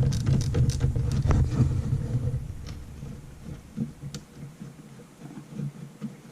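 Socket ratchet clicking in short strokes while loosening the 1/2-inch bolts of a snowmobile chaincase cover, over a low rumble that fades after about two seconds. A few faint clinks of tools and metal parts follow.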